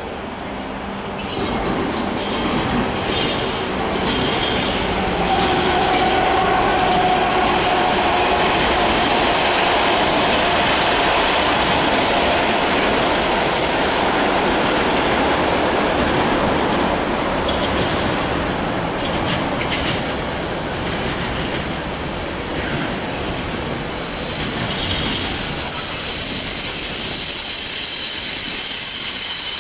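Freightliner Class 70 diesel locomotive passing with its engine running, followed by a long train of container wagons rolling by with rumble and wheel clatter. About halfway through, a steady high-pitched wheel squeal sets in over the rolling noise and grows stronger near the end.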